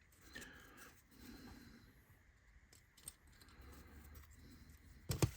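Faint scraping and rubbing as small laser-cut kit parts are handled and cleaned up, with a few light clicks. A sharp double click comes near the end.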